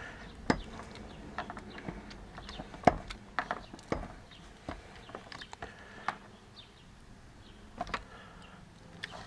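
Hand-held hydraulic crimping tool being pumped to crimp a butt connector onto a wire: a run of irregular clicks and knocks, the sharpest about half a second, three, four and eight seconds in.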